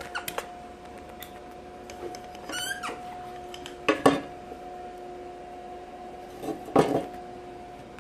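Steel parts clinking and clanking a few times, sharpest about four and seven seconds in, with a short squeak in between, over a steady electrical hum.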